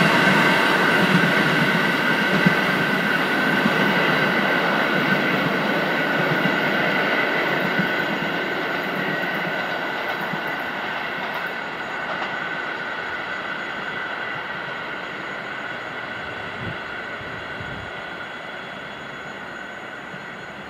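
Passenger train hauled by a TEP70 diesel locomotive rolling away on a curve, its wheels on the rails giving a steady high ringing over the rumble, fading steadily into the distance, with a few faint clicks from the rail joints.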